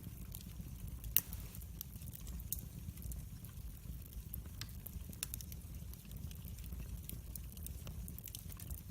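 Wood fire burning in a fireplace, crackling with scattered sharp pops over a low steady rumble, one pop much louder about a second in.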